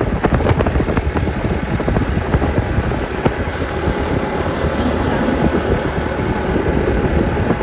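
Motorcycle engine running while riding, with wind buffeting the microphone. A few short rattles come in the first second.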